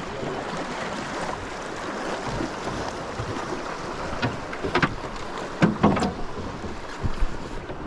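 Moving river water rushing around a drifting boat, with wind buffeting the microphone, and a few sharp knocks a little past the middle.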